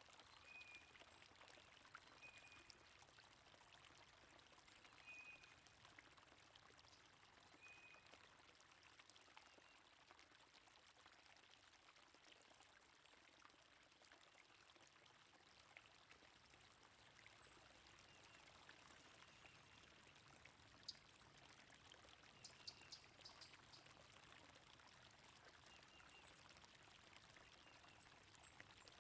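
Faint, steady rush of flowing stream water, with birds calling over it. A short call repeats four times in the first few seconds, and a quick run of high chirps comes a little past the middle.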